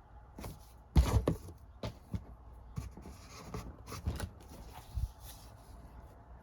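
Blu-ray and DVD cases and their packaging being handled: a loud knock about a second in, then several lighter knocks and clicks with some rustling and scraping.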